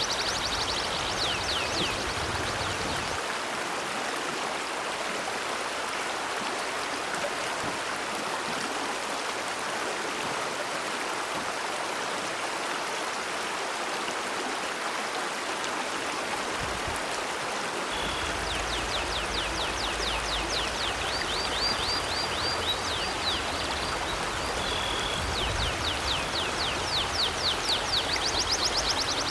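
Steady rush of a flowing river. Over it, a bird chirps in quick runs of high notes, briefly at the start and again through the last third.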